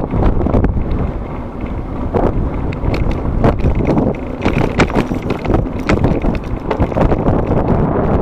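Wind buffeting the microphone of a camera on a moving bicycle: a steady low rumble with gusty swells, and scattered sharp clicks and knocks throughout.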